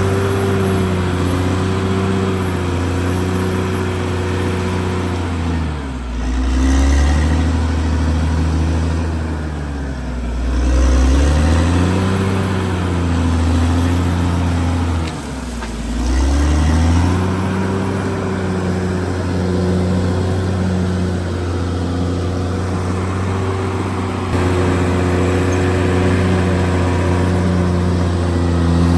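Caterpillar D6R XL bulldozer's diesel engine running hard. Its pitch sags and recovers about six, ten and fifteen seconds in, the sound of the engine dipping under load.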